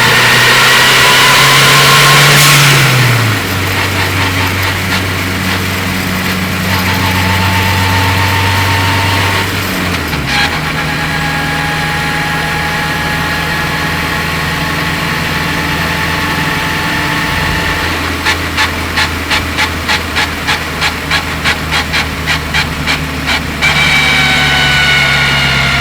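Turbocharged K20 four-cylinder and helical-cut gearbox of a 2003 Honda Civic Si, heard from the engine bay while driving. For the first few seconds it accelerates with a rising whine, then a short hiss and a drop in revs as it shifts about three seconds in. It runs steadily with another shift around ten seconds, and later a rapid ticking of about two and a half a second runs for several seconds before the whine returns near the end.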